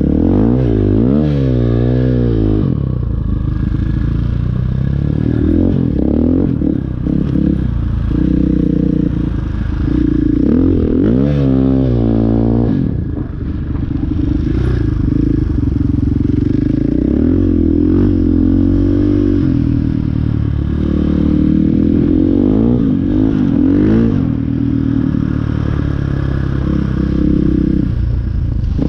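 Dirt bike engine running while being ridden, the revs rising and falling again and again with throttle and gear changes, most sharply near the start and about twelve seconds in.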